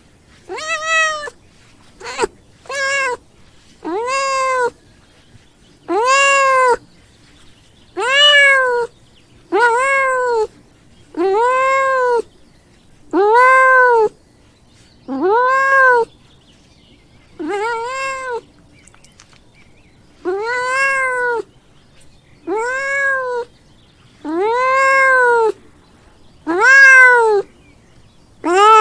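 Domestic cat meowing over and over, about sixteen separate meows one every second or two. Each meow rises and then falls in pitch.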